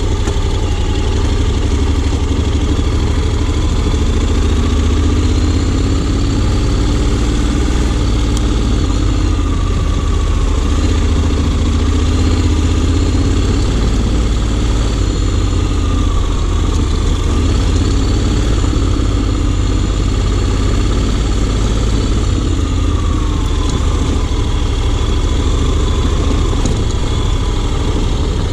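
Honda X-ADV 750's parallel-twin engine running steadily, its pitch drifting gently up and down with small changes of throttle.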